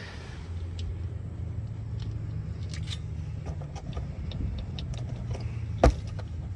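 Hand tools working on the truck's fuel tank strap bolts: scattered light metallic clicks and one sharp clank about six seconds in, over a steady low hum.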